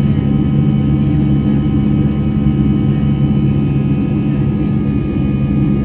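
Airbus A319-111 jet engines heard from inside the passenger cabin at takeoff or climb power: a steady loud drone with several steady tones above it.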